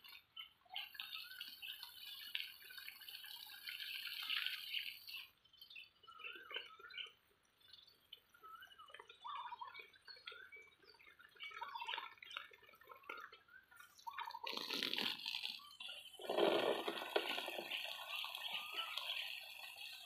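Small birds chirping in many short, scattered calls, with a louder burst of rustling noise about three-quarters of the way through.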